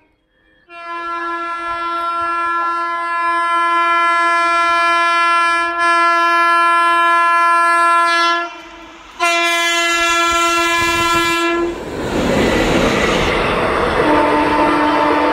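Indian Railways express train: its electric locomotive sounds two horn blasts, a long one of about eight seconds and a shorter one after a brief break. The locomotive and coaches then pass close by at speed with a loud rush and wheel clatter.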